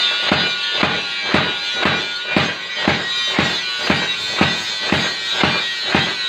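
Steady hammer blows on hot steel at a blacksmith's forge, about two a second, each strike ringing metallically.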